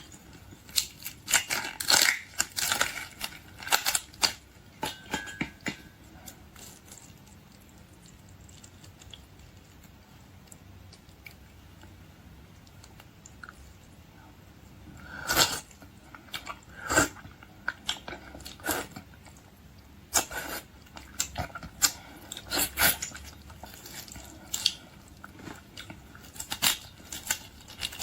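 Close-up eating of boiled seafood: chewing and crunching, with scattered sharp clicks and cracks. It goes quieter for several seconds in the middle, then the crunching and clicking pick up again.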